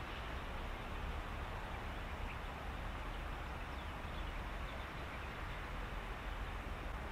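Reedbed ambience: a steady low rumble under an even hiss, with a few faint, short animal calls.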